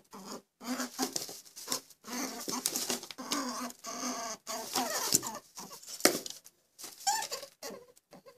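A rapid, irregular run of short animal calls, each a brief pitched sound with a noisy edge, separated by short gaps.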